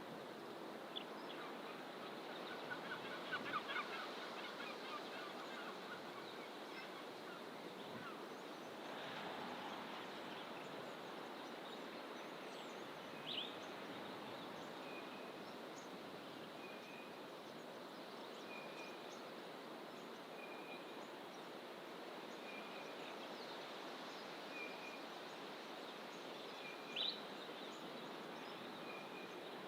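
Several wild birds calling in coastal fynbos bush over a steady background rush. A quick run of notes comes a few seconds in; later one bird repeats a short note about once a second, and a few sharp rising chirps stand out.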